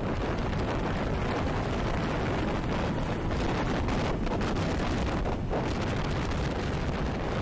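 Steady wind rush buffeting the microphone of a moving motorcycle, with the Suzuki Gixxer 150's single-cylinder engine and tyre noise underneath.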